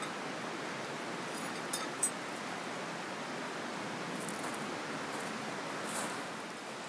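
Steady rushing sound of flowing river water, with two faint sharp clicks about two seconds in.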